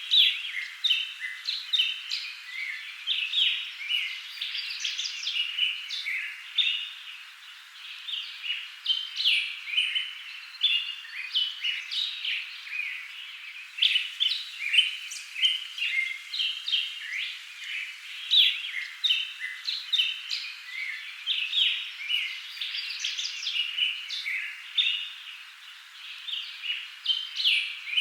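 Small birds chirping in a dense, continuous chorus of short, quick high notes that overlap without a break.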